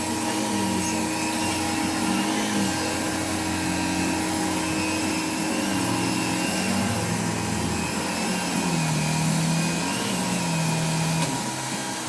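Hoover Dimension 1000 canister vacuum, converted to a backpack, running with a Eureka Express power nozzle. Its hum is steady in loudness and wavers up and down in pitch.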